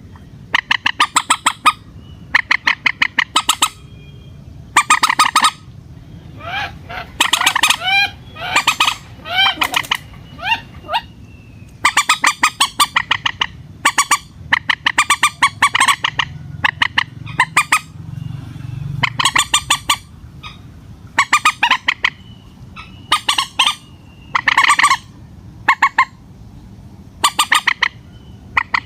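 Common moorhen (mandar batu) giving repeated harsh, rapidly pulsed calls in bursts of about a second, one every second or two, with a few gliding notes mixed in a third of the way through.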